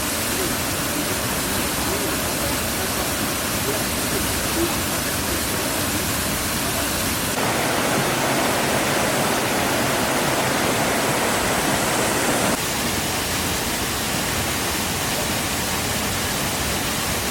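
Waterfall rushing in a steady, dense roar of water. Its tone shifts suddenly about seven seconds in to a fuller, brighter rush, and back again about five seconds later.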